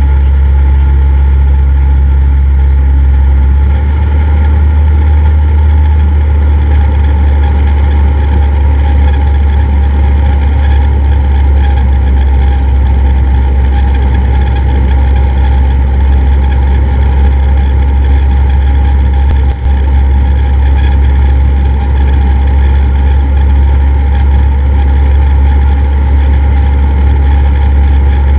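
Cessna 172's engine and propeller, a loud steady drone whose low note shifts slightly about four seconds in.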